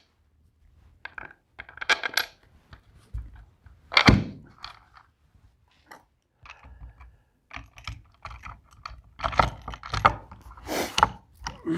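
Irregular clinks, knocks and short scrapes of small metal parts and tools being handled during router-table assembly. The loudest knock comes about four seconds in, and a busy run of clinks follows near the end.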